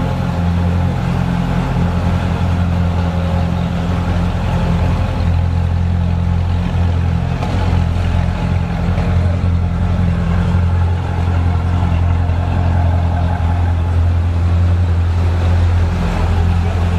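A group of Corvette C6 Z06s with 7.0-litre LS7 V8s, some on aftermarket Borla and Corsa exhausts, running together in a tunnel. It is a loud, steady, deep rumble with no sharp rev sweeps, and the level swells only slightly now and then.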